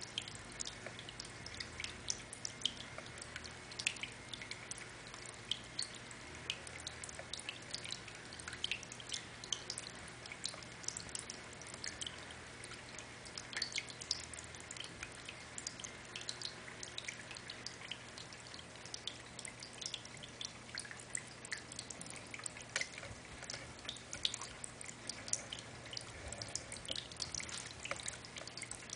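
Cascading water fountain running: water falling and splashing, with many irregular drips and plinks.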